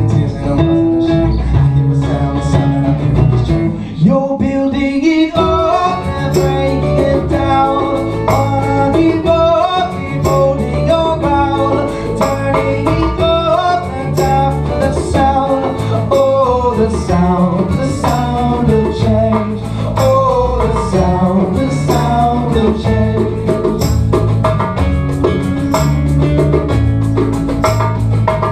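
Live acoustic band music: strummed acoustic guitars over a steady percussion beat of sharp, regular ticks, with a moving melodic line on top.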